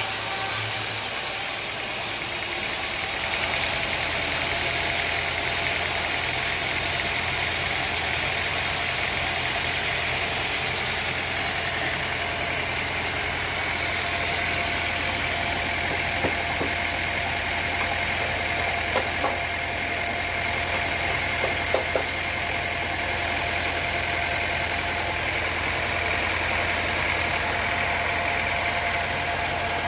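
Sawmill machinery running steadily, a continuous engine-like drone with a steady whine on top. A few short clicks come in the middle.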